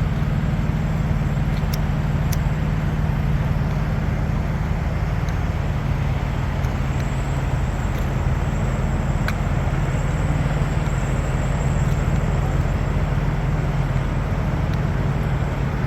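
A truck's diesel engine idles steadily, a constant low drone with a few faint clicks over it.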